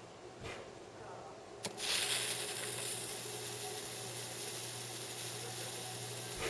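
High-voltage arc from a rectified microwave oven transformer: two sharp snaps, about half a second in and near two seconds, then the arc strikes and hisses steadily over the transformer's low hum.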